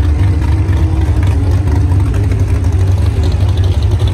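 Jeep Cherokee engine idling steadily, with a low, rough tone and no revving.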